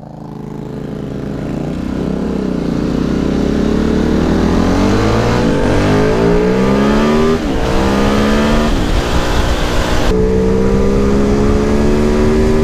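Motorcycle engine with an unbaffled exhaust accelerating hard through the gears: the revs climb steeply and drop sharply at each of several upshifts, then hold steady near the end.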